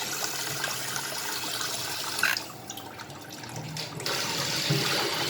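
Water running and splashing as raw chicken is washed. The flow drops away sharply about two seconds in and picks up again a second and a half later.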